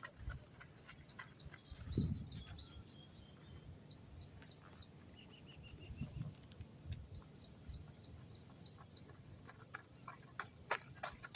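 Faint outdoor ambience: a bird chirping in short, evenly repeated high notes over a steady high insect hiss, with a few faint low sounds.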